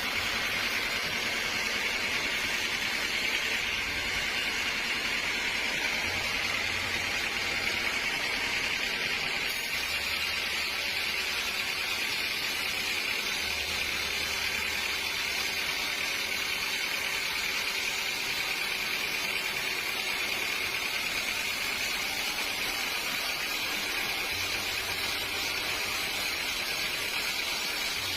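Sawmill machinery running steadily, a constant, even noise with no breaks.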